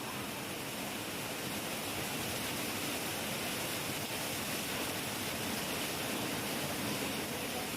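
Heavy rain falling steadily: an even hiss with no thunder.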